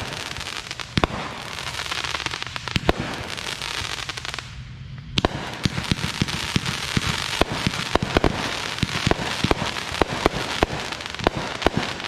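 Fireworks going off: a dense run of sharp cracks over continuous crackling. It drops away briefly about four and a half seconds in, then picks up again with a loud crack.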